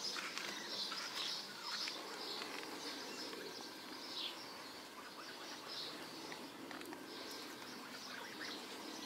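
Small birds chirping repeatedly, short high chirps coming every second or so over a soft background hum.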